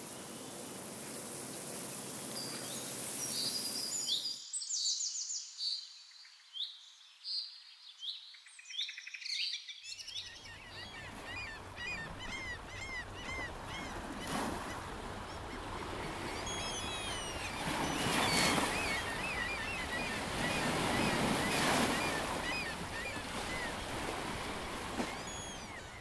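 Small birds chirping and singing over an outdoor nature soundscape. For the first few seconds a steady rushing noise dominates; it drops out for a stretch that leaves only clear, quick chirps, then returns under the birdsong for the rest.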